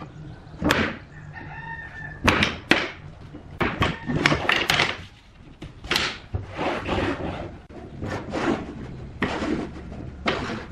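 Irregular sharp knocks of tools on wood, with a faint held call at one pitch about a second in.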